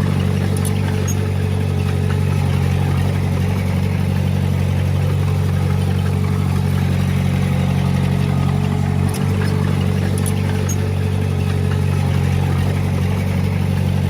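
Diesel engine of heavy earthmoving equipment running steadily at a constant speed, with a brief knock about nine seconds in.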